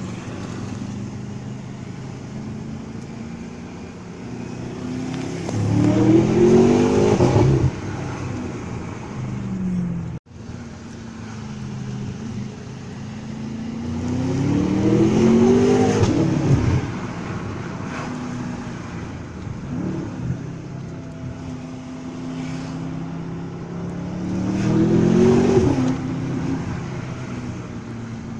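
BMW M5 F10's twin-turbo V8 through an Eisenmann aftermarket exhaust, heard from inside the cabin: three hard accelerations, each a rising engine note that gets loud and then falls away, with steadier running between them.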